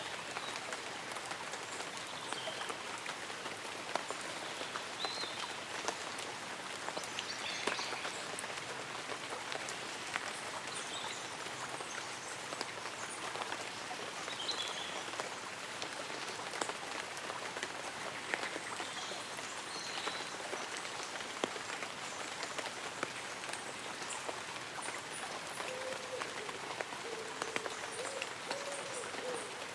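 Light rain falling on tree leaves and an umbrella: a steady patter with many individual drops ticking. Short high chirps come and go, and a low wavering tone sets in near the end.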